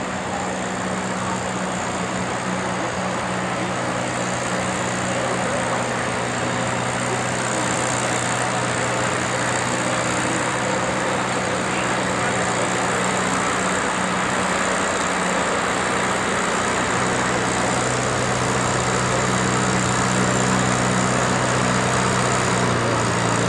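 Tractor engine running steadily, with a noisy hiss over its low hum, growing slowly louder over about twenty seconds.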